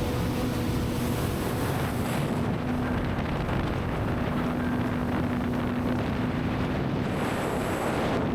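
Jet ski engine running steadily at speed, with wind on the microphone. Its tone holds at one pitch, fading out briefly a few times.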